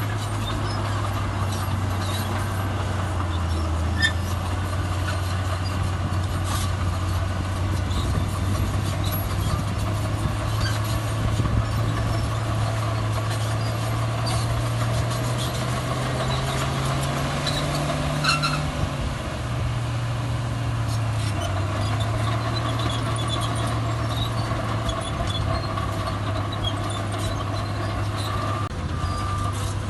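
Heavy diesel earthmoving machinery running steadily, its engine pitch climbing under load for a few seconds past the middle and then dropping back. Near the end a reversing beeper starts, beeping at an even pace.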